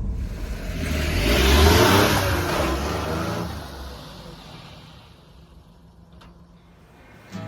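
A 1996 Mitsubishi Minicab kei truck's small three-cylinder engine accelerating, rising in pitch as it drives past. It is loudest about two seconds in, then fades away as the truck moves off.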